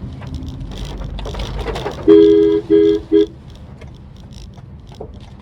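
Car horn honked three times in quick succession, the first blast the longest and the last the shortest, over steady low road noise from the moving car.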